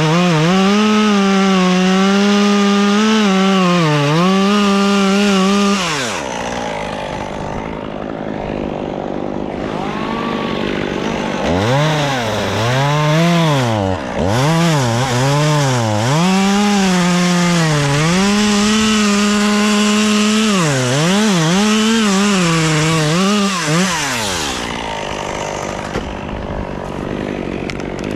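Two-stroke chainsaw running at high revs, cutting wood. It drops back about six seconds in, then is revved again and again from about twelve to twenty-four seconds, its pitch dipping and rising, before falling back to a lower running sound near the end.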